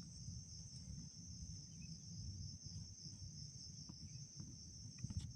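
Faint, steady high-pitched insect chorus, like crickets, over a low rumble, with a few small clicks near the end.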